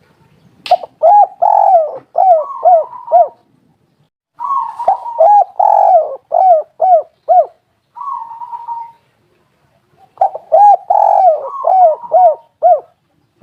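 Spotted dove cooing: three phrases of repeated rising-and-falling coos, with a softer, shorter coo between the second and third phrases. A sharp click sounds just before the first phrase.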